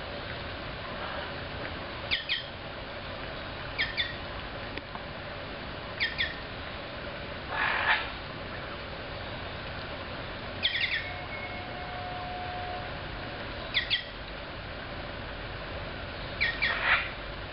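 A bird chirping: short two-note chirps repeated every two to three seconds, with a couple of louder, harsher calls in between.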